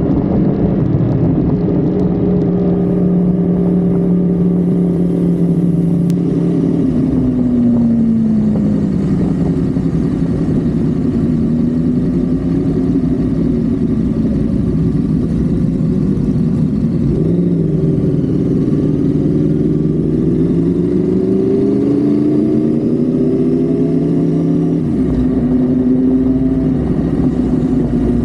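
Honda Civic FD's engine pulling at highway speed, its note holding steady, dropping, then climbing again over road noise; the engine note falls suddenly about two-thirds of the way through, then rises once more.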